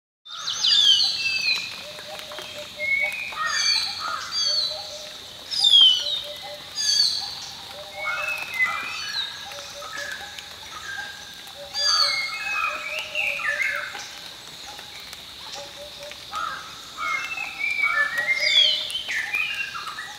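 Several birds calling at once, a chorus of short sweeping chirps and whistles with a lower note repeating now and then, over a faint steady high tone.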